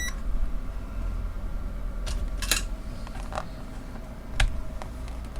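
Handling clicks of multimeter probes and a circuit board over a steady low hum, with a short high beep right at the start.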